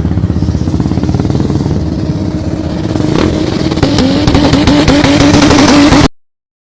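Car engine held on a two-step launch limiter, banging and crackling rapidly as the limiter cuts in and out. It gets louder a little after halfway, then cuts off suddenly.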